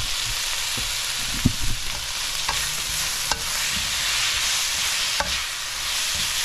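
Sliced bell peppers and onions sizzling in a hot skillet while a spatula stirs them. A few short, sharp scrapes and taps of the spatula against the pan are heard over the steady sizzle.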